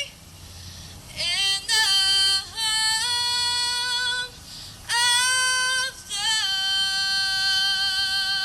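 A woman singing solo in a high voice, holding long, steady notes in several phrases separated by short breaks.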